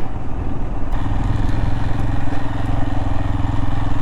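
Royal Enfield Himalayan's single-cylinder engine running under way on a steep, loose off-road trail, its steady pulsing note picking up a little about a second in.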